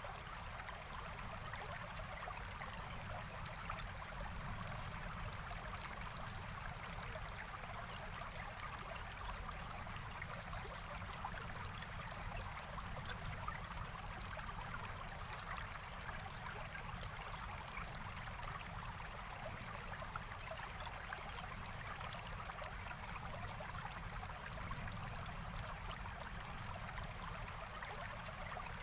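Forest stream flowing steadily with an even rushing and trickling, with faint sharp crackles of a campfire scattered through it.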